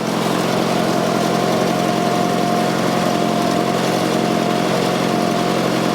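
Fordson Super Major's 3.6-litre diesel engine running steadily, with a steady high-pitched whine over the engine note.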